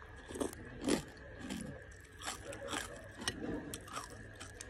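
Close-up chewing of a mouthful of noodle soup topped with crispy pork cracklings: a run of short crunches and wet mouth sounds.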